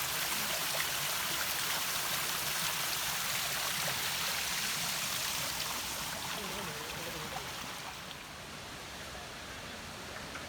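Steady rushing of running water, like a stream, fading somewhat about three-quarters of the way through.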